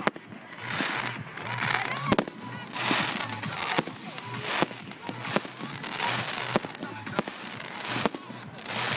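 Fireworks display: a string of sharp bangs spaced irregularly, about one a second, over swelling crackle and hiss from bursting shells.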